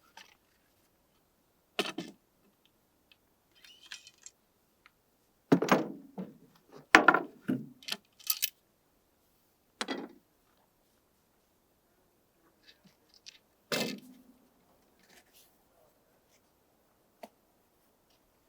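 Handling sounds: a string of irregular knocks, clunks and clinks with quiet gaps between them, the loudest cluster about five to eight seconds in, and a brief rustle near four seconds.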